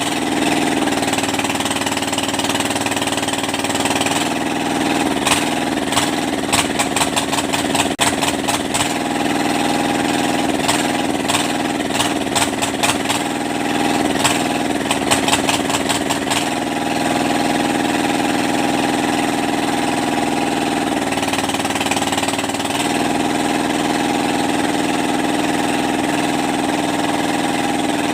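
Kubota Z751 two-cylinder diesel engine running steadily at idle. From about four seconds in, a rapid clattering of sharp clicks rides over it for about twelve seconds while the engine speed wavers slightly, then the idle runs on steady.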